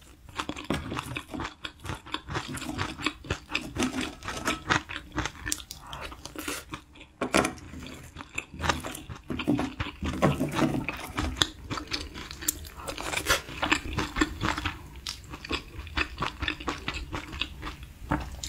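Close-miked eating of spicy beef-intestine hot pot: wet chewing and slurping of spoonfuls, with sharp clicks from the spoon in the metal pan now and then.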